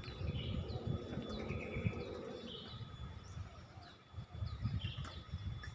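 Small birds chirping: short, high, downward-sliding notes repeated at uneven intervals, over a steady low rumble.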